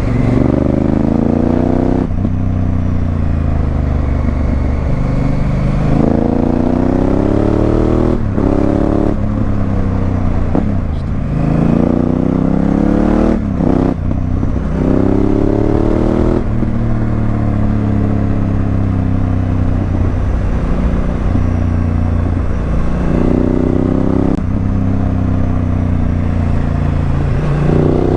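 Honda Africa Twin CRF1000L's parallel-twin engine through a Remus aftermarket exhaust, riding under acceleration: the pitch climbs and drops sharply at each upshift several times, and in the middle it falls away slowly as the bike slows.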